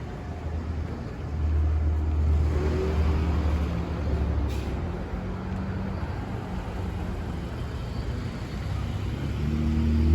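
City street traffic: a motor vehicle's engine running with a low rumble that grows louder about a second and a half in, with a single short click midway.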